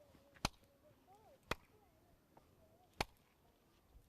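Three single hand claps, evenly spaced about one and a half seconds apart: each single clap is the signal for the children to pass the pen to the next child.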